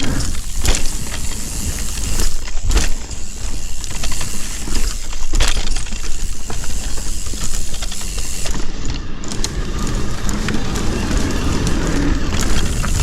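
Mountain bike rolling along a loose, gravelly dirt trail: tyres on stones, the bike rattling with sharp knocks now and then, and wind rushing over the microphone.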